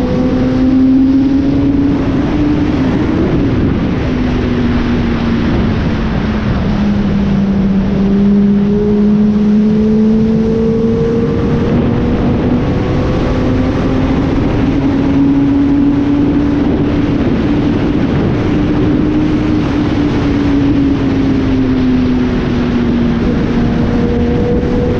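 Kawasaki ZX-10R's inline-four engine running while the bike is ridden, its pitch slowly rising and falling with the throttle, over a heavy rush of wind noise.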